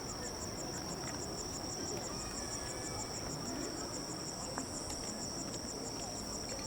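Insects chirping: a steady high trill together with a rapid, evenly pulsed chirp of about six pulses a second, over a low background hum.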